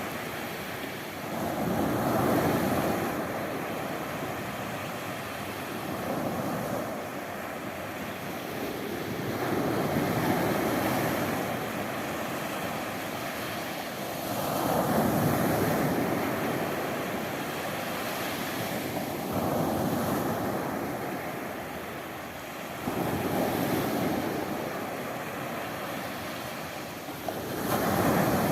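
Sea waves washing in, a steady rush of surf that swells and falls back about every four to five seconds.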